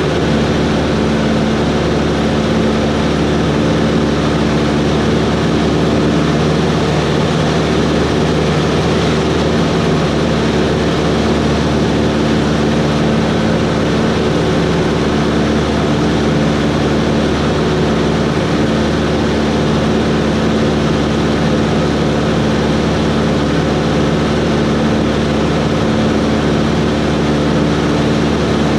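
Cessna 140's piston engine and propeller running steadily in flight, a constant drone at unchanging power.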